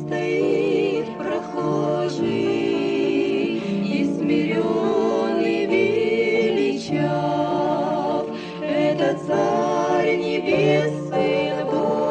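Choir singing a Russian hymn in several voices: long held chords with vibrato, changing every second or two.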